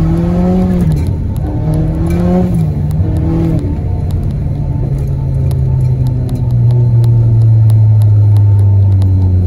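Audi A3's 1.8-litre turbocharged four-cylinder engine heard from inside the cabin, its revs climbing and dropping several times over the first few seconds. It then settles into a steady drone that slowly falls in pitch.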